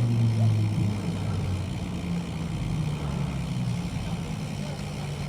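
Street traffic: a motor vehicle's engine running with a steady low hum.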